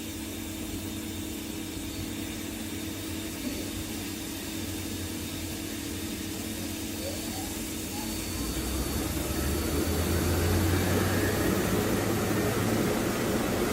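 Mazak Integrex 35 CNC turn-mill machine running with a steady mechanical hum. It grows louder about eight seconds in, after a brief faint rising whine.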